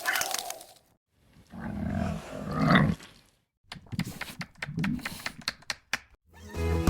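An animal's growl, dog-like, from about a second and a half in for a second and a half, followed by a run of sharp clicks or taps.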